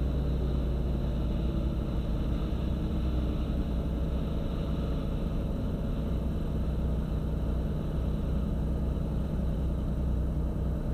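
Beechcraft Bonanza's single piston engine and propeller running steadily at low power, a constant low drone, as the plane rolls out and turns off the runway after landing.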